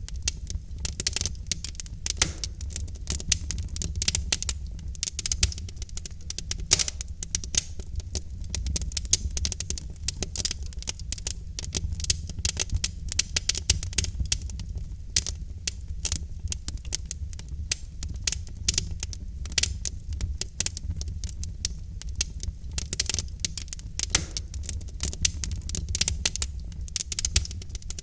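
Wood fire in a fireplace, burning logs crackling and popping irregularly over a steady low rumble of the flames.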